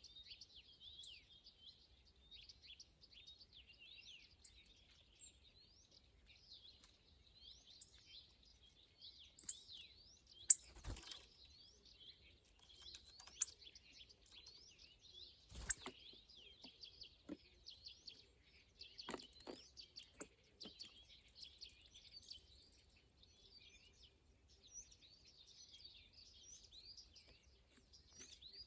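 Many small songbirds chirping and twittering continuously, with a few sharp knocks or clicks, the loudest about a third of the way in.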